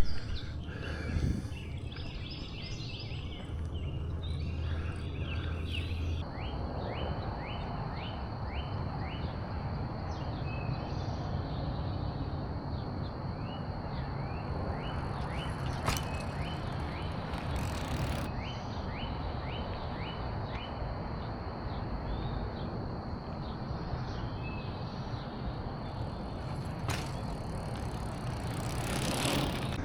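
Wind and road noise on a bicycle rider's camera while riding: a steady rushing hiss that grows louder about six seconds in. Over it, runs of quick, short rising chirps, like a bird calling, repeat every half second or so.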